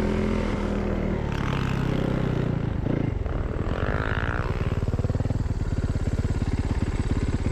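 Snowmobile engine running; its pitch drops over the first few seconds as the machine slows, then it settles into a steady, fast-pulsing run.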